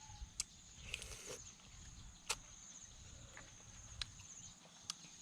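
A steady high insect trill, like crickets, runs in the background. Over it come a few sharp clicks and one short crunch about a second in, the sound of someone eating raw crab and shrimp salad.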